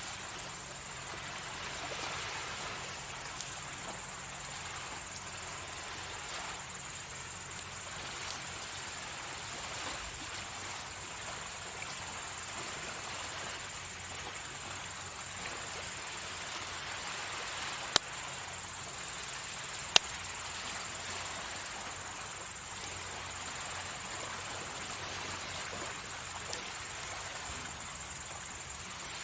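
Insects chirping steadily in one continuous high trill over a steady hiss of surf from waves on the shore. A few sharp clicks stand out, the loudest two about eighteen and twenty seconds in.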